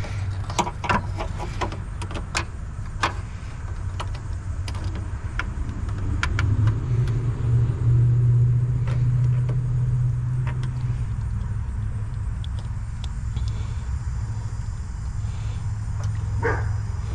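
A vehicle engine running steadily, swelling louder and a little higher in pitch in the middle, with sharp metallic clicks and knocks in the first few seconds and another near the end.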